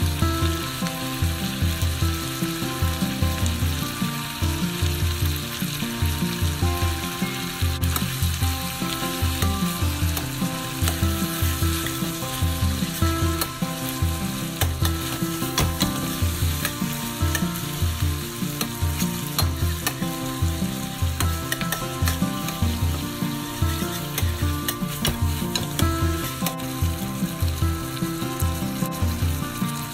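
Beef tripe and cabbage sizzling in a frying pan as they are stir-fried and stirred with a spatula, with a steady crackle of small pops. Background music with a steady low beat plays along.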